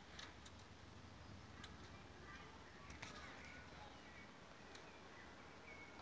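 Faint bird chirps and short twitters in a quiet garden, with a few soft, irregular clicks, the clearest about three seconds in.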